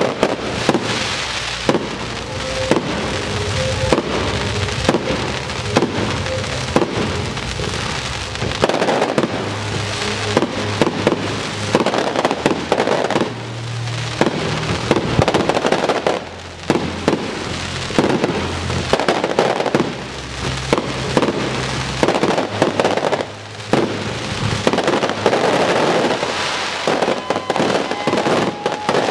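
Aerial fireworks display: shells bursting in a rapid, dense barrage of bangs and crackling, with a few brief lulls, over background music.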